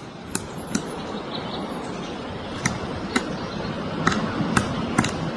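Woodpecker pecking at wood: about nine single sharp knocks at uneven spacing, mostly half a second or more apart, over a steady background hiss.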